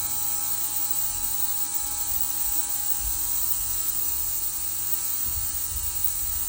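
Ultrasonic parts cleaner running with a steady buzzing hum and hiss, with a few low bumps over it.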